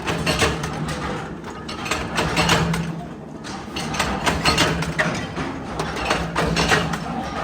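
Factory machinery running, with irregular metallic clicks and clatter over a steady low hum.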